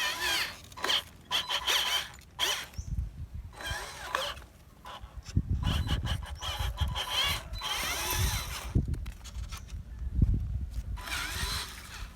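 Electric motors and gearboxes of a remote-control construction truck whining in short stop-start bursts, the pitch rising and falling as they speed up and slow down, with a few low thuds between bursts.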